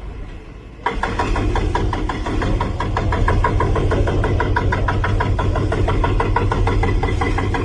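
Heavy vehicle engine running steadily with a fast, even pulse. It cuts in abruptly about a second in.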